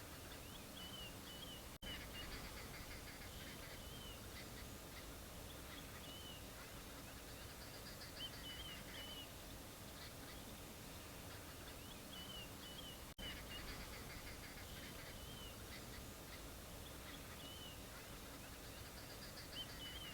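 Faint outdoor ambience of small birds calling: short, high chirping phrases repeated every second or two, with a rapid trill now and then. The sound drops out briefly twice, about two seconds in and again about thirteen seconds in.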